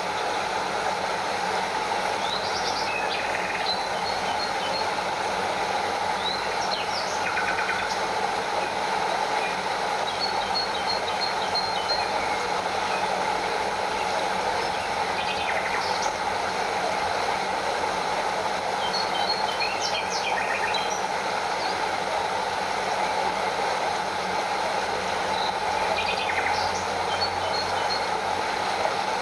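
A stream running over a small waterfall, a steady rushing of water. Short high chirps and trills sound now and then over it.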